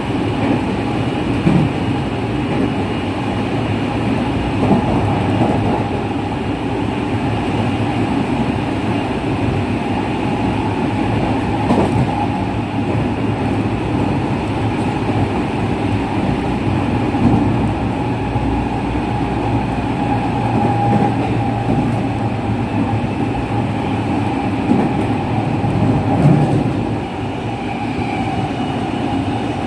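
Running sound inside a JR West 207 series electric train, set Z7, whose traction motors still have their original unmodified pitch: a steady rumble of wheels on the rails with a faint held motor tone and a few knocks over rail joints.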